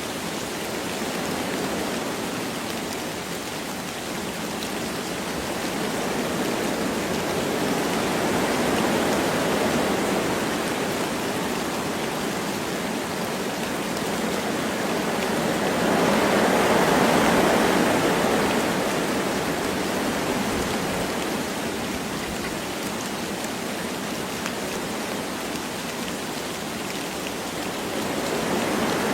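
Wind blowing through forest trees with light rain, a steady rushing that swells in gusts, most strongly a little past halfway and again near the end.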